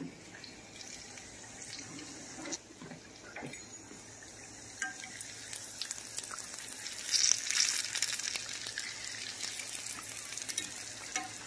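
Fried apple pies sizzling in hot oil in a pan: a steady frying hiss with scattered light crackles, growing louder about seven seconds in.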